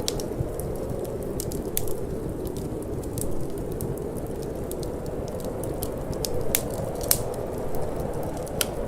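Wood fire crackling, with irregular sharp pops and snaps, the loudest two about six and a half and seven seconds in, over a steady low rush of wind.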